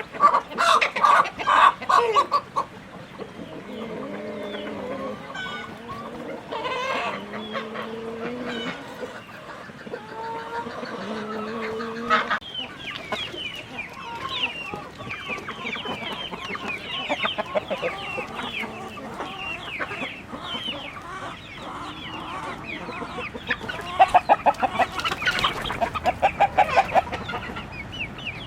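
Flock of chickens clucking and cackling: loud rapid cackles at the start and again near the end, a few drawn-out low calls in between, and a dense chatter of many short high calls through the second half.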